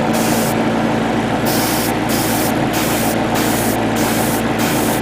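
Airbrush spraying paint in short hissing bursts, several a second, with a brief pause about half a second in. A steady hum runs underneath.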